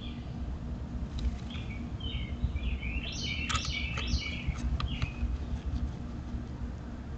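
A run of short, high bird chirps, with a cluster of sharp clicks and scratches about three and a half to four seconds in as an adult American robin shifts its body on the grass nest, over a steady low rumble and faint hum.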